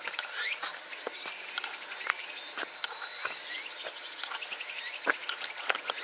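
Small birds chirping in short, quick sweeping calls, over a scatter of irregular sharp clicks.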